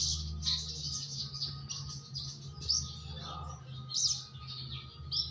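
A sogon bird chirping and calling busily in quick, varied high notes, over a steady low hum.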